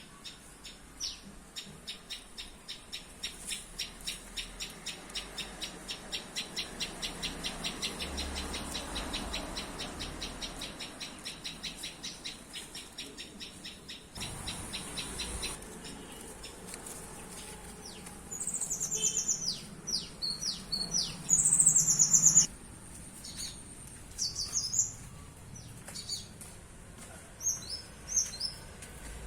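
Small birds chirping: an even run of short, high chirps at about four a second, then louder, scattered chirps and whistles in the second half.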